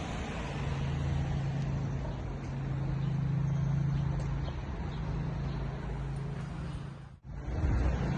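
A motor vehicle driving: a steady low engine hum under road noise. It drops out briefly about seven seconds in, then resumes.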